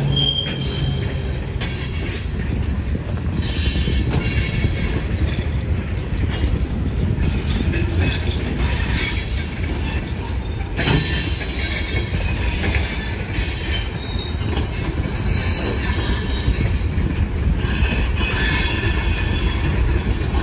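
Freight train rolling past: a steady low rumble of steel wheels on rail, with high wheel squeal that comes and goes every few seconds.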